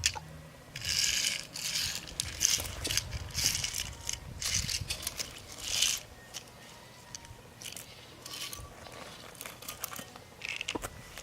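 Small rocks scraping and rattling as they are scooped and moved about with toy construction vehicles: a run of gritty bursts for several seconds, then scattered clicks, with a couple more rattles near the end.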